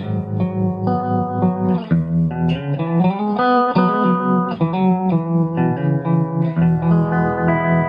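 Guitar chords played through a Shere Sound Whirligig analog vibrato pedal, the effect setting a wobble on the notes; a chord is left ringing near the end.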